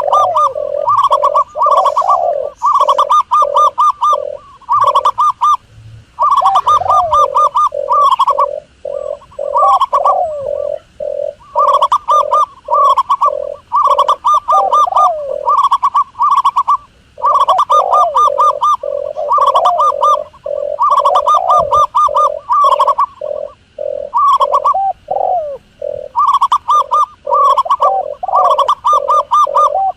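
Doves cooing in fast runs of short repeated notes, broken by brief pauses.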